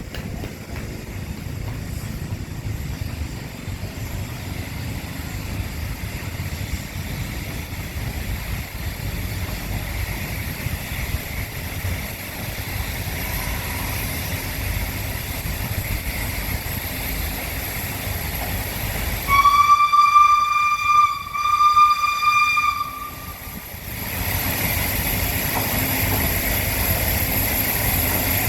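Train running slowly with a steady low rumble. About two-thirds through, the steam locomotive's whistle sounds loud and high in two blasts of about two seconds each.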